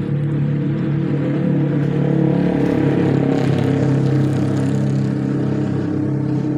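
Heavy diesel engine running steadily with a low, even hum, getting a little louder about two seconds in and easing back after four seconds.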